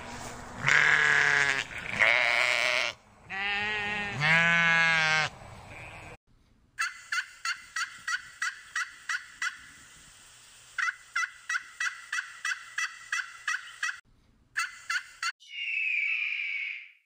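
Sheep bleating, several wavering bleats from the flock, then a turkey tom gobbling in a long run of quick repeated notes, about four a second. Near the end a buzzard gives one drawn-out mewing call.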